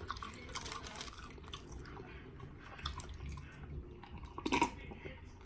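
Close-miked chewing with small wet mouth clicks, and one louder burst of mouth noise about four and a half seconds in.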